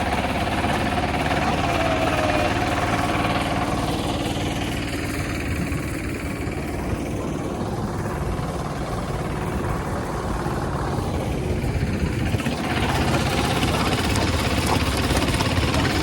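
Hand tractor engine running steadily with a fast, even chugging; its sound dulls for several seconds midway, then comes back to full strength.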